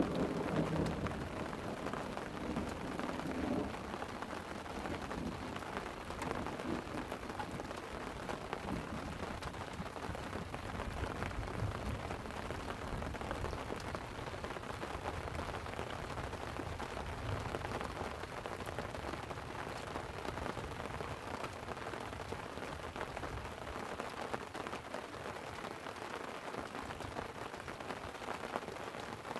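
Steady light rain pattering on a tent, with the tail of a thunder rumble dying away in the first second and a faint low rumble of distant thunder near the middle.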